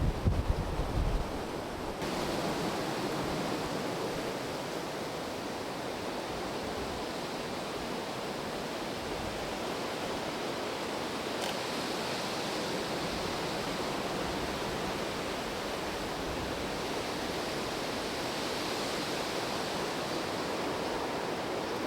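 Wind: a brief buffeting gust on the microphone in the first second, then a steady rushing wind noise.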